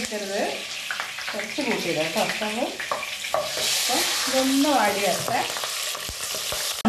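Green chillies and curry leaves sizzling in hot oil in a non-stick kadai, stirred with a wooden spatula. The sizzle grows brighter for a while in the middle.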